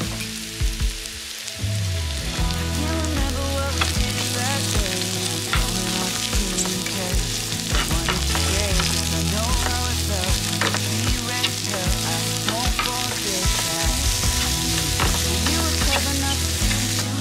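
Cubed avocado and sliced mushrooms sizzling in olive oil in a non-stick frying pan, stirred with a spatula that scrapes and clicks against the pan again and again.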